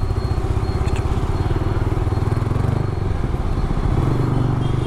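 Yamaha R15 V3's single-cylinder engine running through an aftermarket exhaust with its dB killer fitted, held at low revs while riding. The engine note dips slightly about three seconds in, then picks up again.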